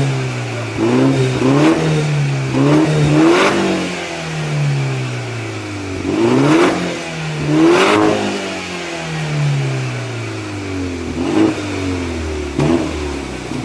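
2018 BMW 530i M Sport's turbocharged four-cylinder engine blipped repeatedly through an aftermarket Maintec G valved exhaust muffler. It gives about seven short revs of varying size, each rising and falling back to idle.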